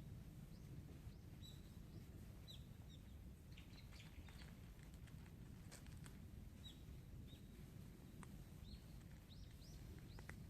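Small birds chirping faintly, short scattered high chirps, over a steady low outdoor rumble.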